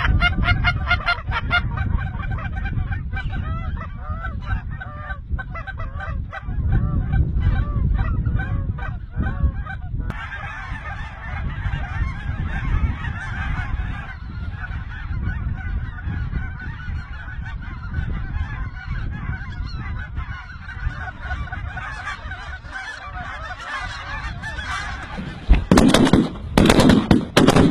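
A large flock of wild geese honking, with many overlapping calls that merge into a continuous chorus, over low wind rumble. Near the end, several loud shotgun blasts go off in quick succession.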